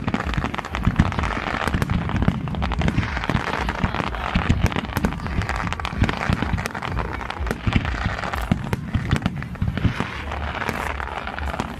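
Fireworks display going off in a dense, continuous barrage of many rapid bangs and pops.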